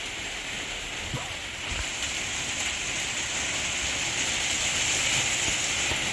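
Heavy rain falling in a steady hiss, growing a little louder about two seconds in and then holding.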